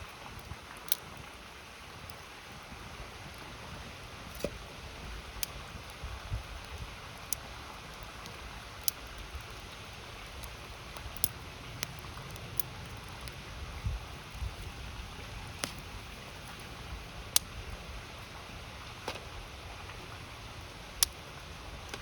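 Wood campfire crackling, with sharp irregular pops every second or two, over the steady rush of a river.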